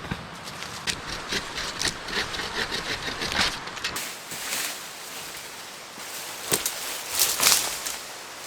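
Rustling and crackling of dry forest brush and sticks, with irregular sharp snaps and clicks. The loudest flurry of crackles comes near the end.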